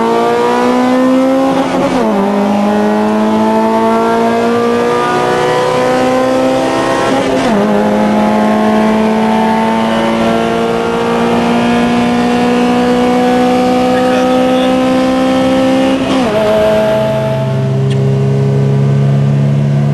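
Car engine at full throttle, heard from inside the cabin, pulling hard up through the gears in a roll race. Its pitch climbs slowly and steadily, with quick upshifts about two, seven and sixteen seconds in.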